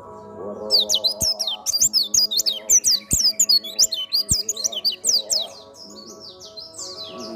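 Pleci (white-eye) singing a fast, dense run of high chirping, twittering notes that eases into softer twittering near the end, over background music. A few faint clicks sound during the loud part.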